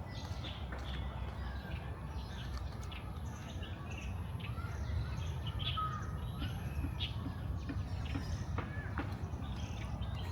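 Small birds chirping: short calls scattered throughout, over a low steady rumble.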